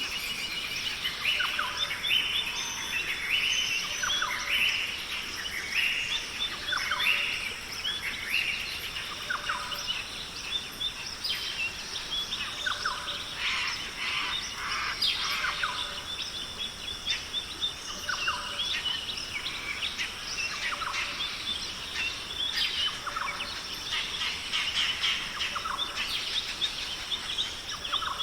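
Australian rainforest ambience: many birds calling at once, with overlapping short chirps, trills and whistles throughout, over a steady high-pitched hiss.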